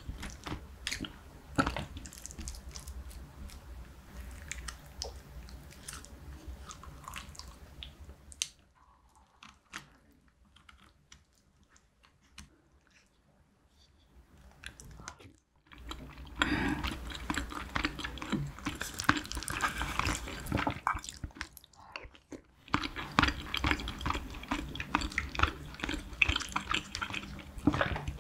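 Close-miked chewing of spicy braised cutlassfish and rice, with sharp clicks of wooden chopsticks and a wooden spoon against a metal pan and a steel rice bowl. About a third of the way in there is a quiet pause of several seconds, after which the chewing comes back louder.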